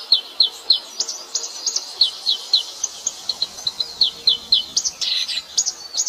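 Small birds chirping: quick runs of short, high, falling notes, several a second, with a few harsher chirps near the end.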